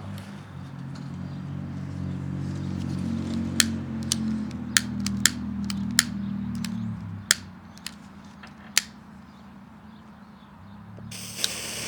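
Repeated sharp clicks of a long utility lighter's igniter, seven or eight spaced unevenly, as it is struck again and again and fails to light at once. A low engine hum fades out partway through. Near the end a sudden hiss starts as the smoke ball's fuse catches.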